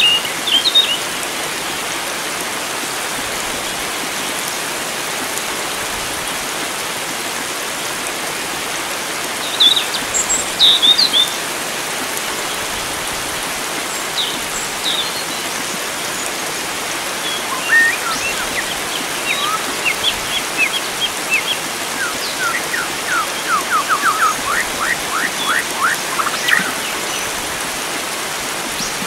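A steady rush of running water with wild birds calling over it: bursts of chirps about ten seconds in, and later a long run of quick downward-sliding notes.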